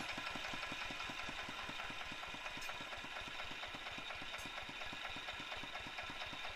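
Tractor diesel engine idling steadily with an even, rapid knock, running after its valve stem seals were replaced and its injector adjusted to cure heavy smoking.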